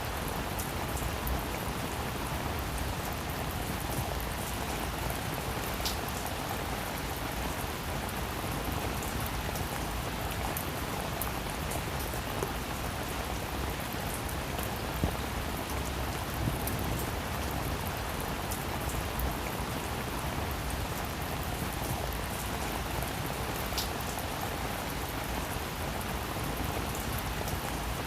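Steady rain falling on a roof: a dense, even patter of drops, with a few single louder drops standing out.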